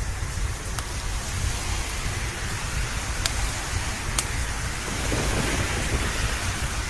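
Steady rain with a low background rumble and a few sharp crackles and pops from a wood fire. A roll of thunder swells about five seconds in.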